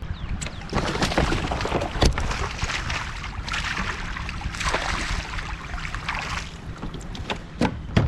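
Water splashing and sloshing around a fishing kayak, with wind rumbling on the microphone and a few sharp knocks on the hull, the loudest about two seconds in and another near the end.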